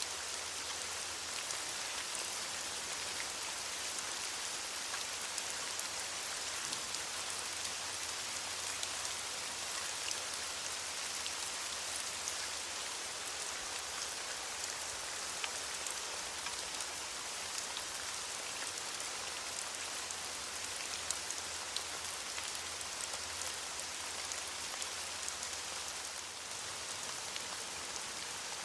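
Steady rain falling on leaves: a dense, even patter with many individual drops ticking through it.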